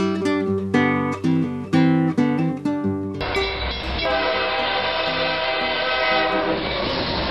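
Plucked acoustic guitar theme music that cuts off about three seconds in, giving way to a train: a horn chord held for about three seconds over the steady rumble of the train running on the rails, which carries on after the horn stops.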